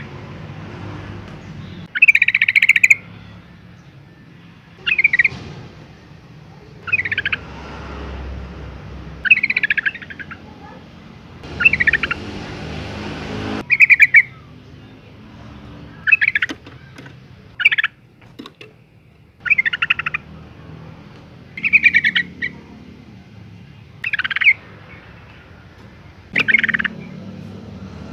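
Female yellow-vented bulbul calling: short, bubbly chattering phrases repeated about every two seconds.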